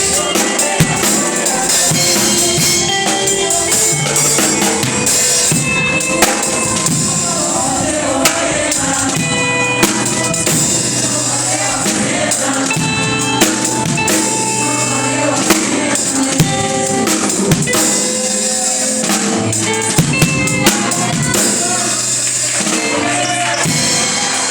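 Live instrumental music driven by a drum kit: kick drum, snare strikes and a constant cymbal wash under held pitched notes from other instruments, with no singing.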